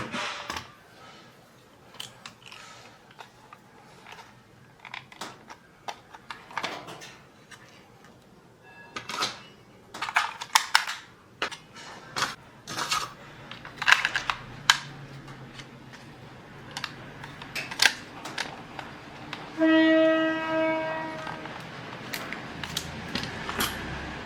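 Small clicks, taps and knocks of toy parts and tools being handled during repair, irregular throughout. About 20 s in, one steady pitched tone with overtones sounds for about two seconds.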